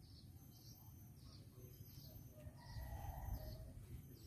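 Faint bird chirping: short high calls repeated about every two-thirds of a second, over a low rumble that swells a little past the middle.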